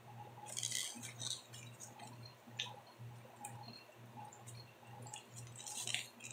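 Faint mouth sounds of someone eating pizza: scattered short crackly clicks and smacks, a cluster about half a second in and another near the end, over a steady low hum.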